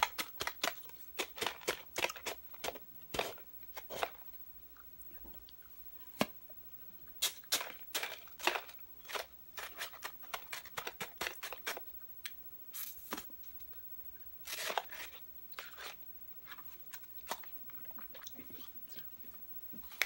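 Close-up eating sounds: chewing with wet lip smacks and mouth clicks, coming in irregular flurries with short pauses between them.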